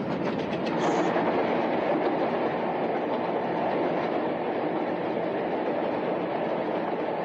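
Test train being driven at speed by its locomotive, heard from inside the cab: a steady running rumble of engine and wheels, with a quick series of regular wheel clicks over rail joints in the first second.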